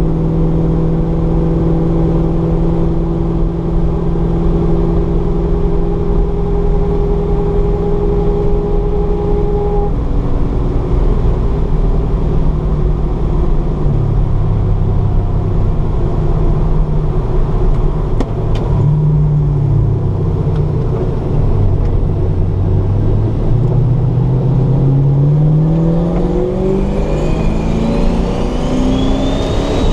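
Turbocharged car engine heard from inside the cabin while lapping a race track: it holds a steady pitch for about ten seconds, drops lower and wavers through the middle, then climbs steadily near the end as the car accelerates, with a faint rising whistle over the top. Constant wind noise from an open rear window runs under it.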